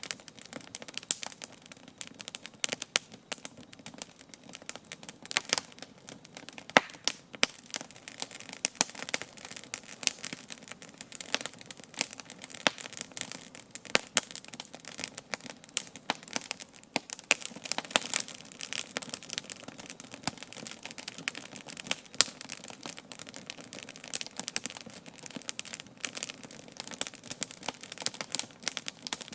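Wood campfire burning: a dense, irregular crackle of many small snaps, with frequent sharper, louder pops.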